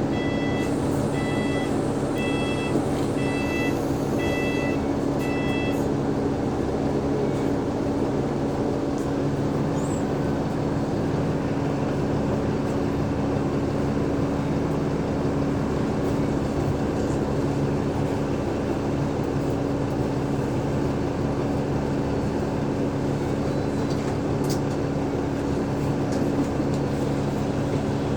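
Cummins ISL diesel engine of an Alexander Dennis Enviro500 MMC bus, heard inside the cabin, running with a steady hum. In the first six seconds there is a series of about seven short electronic beeps.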